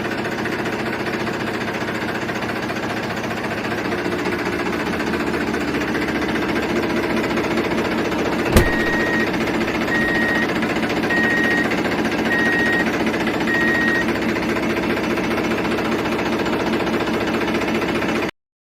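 Small electric motors and gearboxes of toy tractors whirring and rattling steadily under load, with a single sharp click about eight and a half seconds in.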